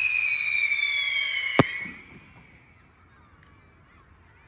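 A firework whistle, loud and slowly falling in pitch, fading out after about two seconds. A single sharp crack comes just before it fades, then only faint distant crackling.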